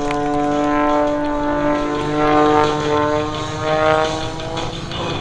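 Engine and propeller of a Wolf Pitts Pro aerobatic biplane droning in flight, with the pitch dropping near the end.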